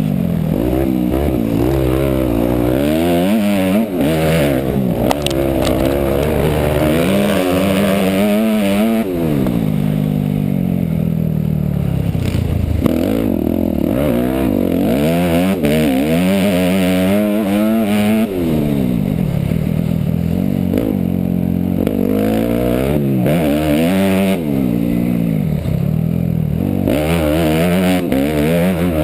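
Motocross dirt bike engine, heard close up from on board, revving up and falling back again and again as the bike accelerates and backs off around the track.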